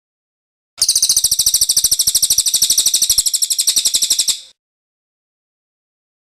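Cililin bird singing its rolling song: one very rapid, high, even trill lasting about three and a half seconds, starting about a second in and cutting off.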